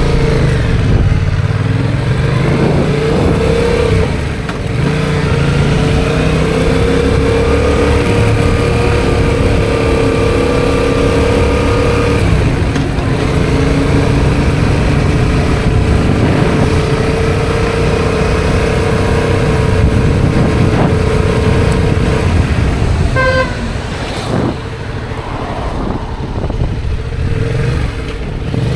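Motorcycle engine running on the road, its pitch rising and falling with throttle and gear changes. Near the end there is a short horn beep.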